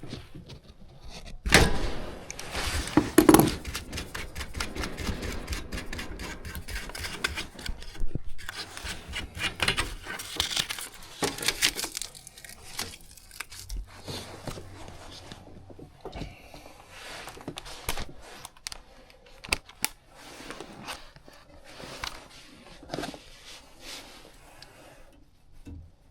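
Hand tools clinking, scraping and knocking on metal as a furnace's gas valve and pipe fittings are worked loose. The loudest clatter comes about two to three seconds in, with dense rapid clicking and scraping through the first half and scattered knocks after.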